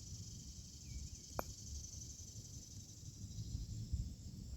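A single sharp click of a putter striking a golf ball about a second and a half in, over a steady high hiss of insects and a low rumble.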